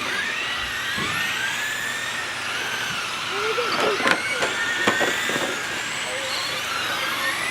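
Several radio-controlled trucks racing on a dirt oval, their motors whining and sliding up and down in pitch as they speed up and slow through the corners, with two sharp clacks about four and five seconds in.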